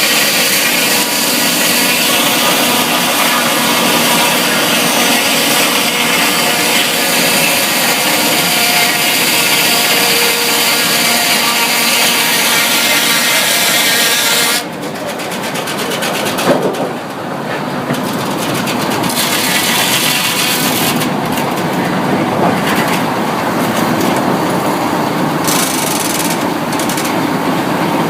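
Sawmill saw and machinery running loudly, with a steady whine for about half the time. It then changes abruptly, and a sharp knock follows about two seconds later. A rougher, gritty sawing sound then builds.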